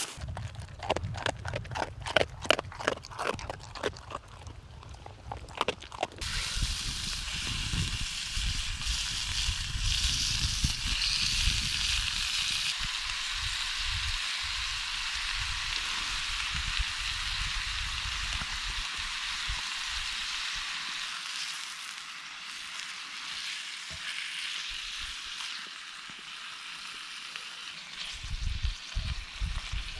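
Food sizzling in a frying pan: a steady frying hiss sets in about six seconds in, after a run of irregular clicks and knocks.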